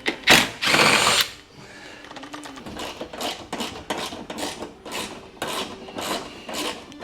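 Hand ratchet working: a loud rasp about a second long near the start, then a run of short ratcheting strokes at about three a second.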